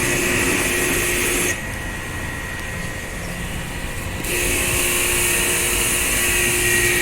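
Steady machine whine and hiss from a motor, with a steady hum under it; about a second and a half in it suddenly goes quieter and duller for nearly three seconds, then comes back as before.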